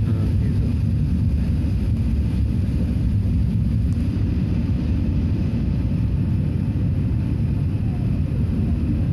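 Airbus A380 cabin noise: a steady low rumble of the jet engines and airflow, even throughout.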